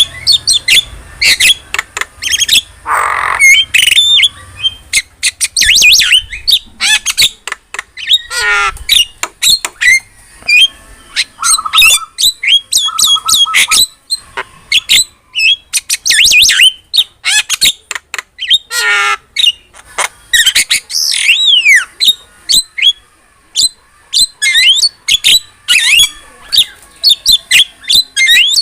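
Javan myna singing vigorously: a dense, varied stream of sharp whistles, chirps and harsh squawks with a few lower rattling notes.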